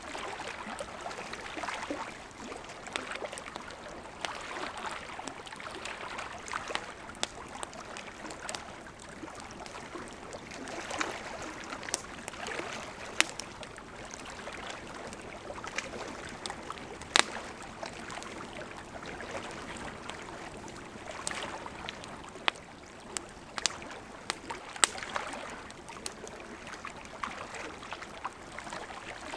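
Wood campfire burning: a steady hiss of flames with irregular crackles and sharp pops of burning wood, a few pops standing out louder than the rest.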